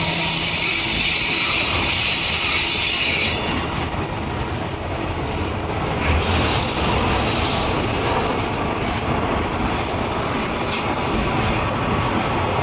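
Freight train of container wagons behind a JR Freight EF200 electric locomotive rolling past on a curve. A high wheel squeal sounds for the first three seconds or so, then a steady rumble of wheels with occasional clacks over rail joints.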